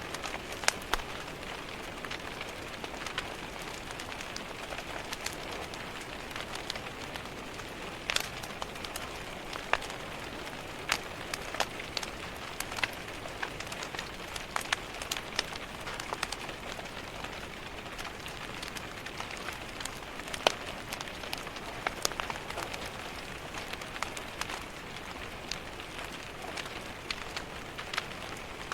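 Rain pattering on window glass, mixed with a crackling wood fire: a steady hiss of rain broken by frequent, irregular sharp pops and taps.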